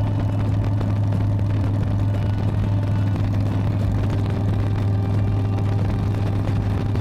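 Harley-Davidson V-twin motorcycle engine running steadily at an even throttle while riding, with a constant low drone and no revving.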